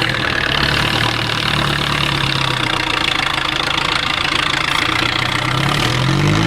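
IFA W50 truck's diesel engine running steadily, then revving up with a rising pitch near the end.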